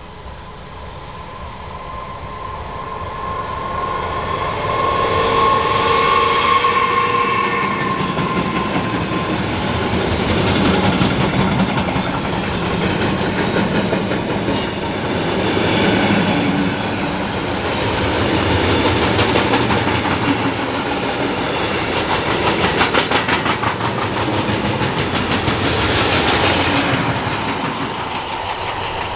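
An electric train passing on a mainline: a steady whine as it draws near, then a long run of rumbling wheel noise and rail clatter. Brief high squeals come in the middle, and the noise fades away near the end.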